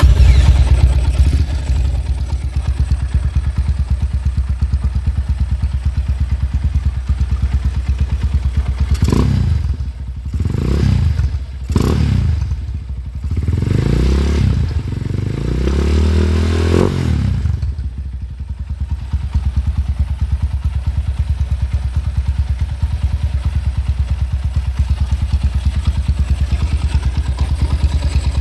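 Motorcycle fitted with an aftermarket 'ulem' exhaust idling with a deep, bassy note, revved about five times in quick blips in the middle, one held a little longer, before settling back to a steady idle.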